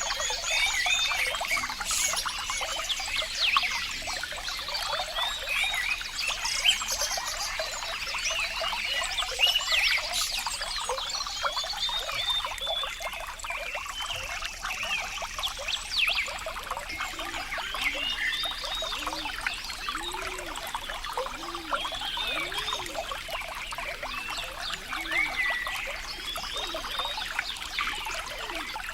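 Running water trickling and splashing steadily, full of small bubbling plops. In the second half there is a run of low rising-and-falling notes about once a second.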